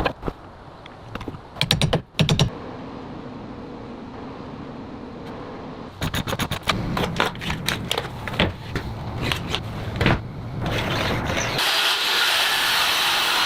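Building-work tool sounds: runs of sharp clicks and knocks over a low rumble, then a steady loud hiss that starts near the end.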